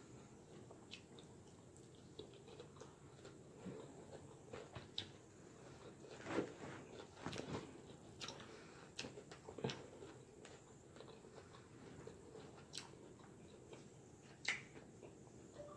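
Faint close-up chewing of salad with crackers, with scattered soft crunches and light clicks of a fork in a glass bowl.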